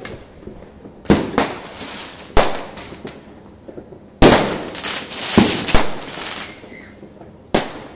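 New Year's fireworks going off: a string of sharp bangs at uneven intervals, the loudest about four seconds in, followed by a spell of crackling.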